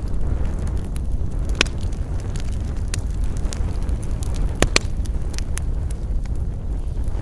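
Wood fire crackling, with frequent sharp pops and snaps, a few louder ones about a second and a half in and again near the five-second mark, over a steady low rumble.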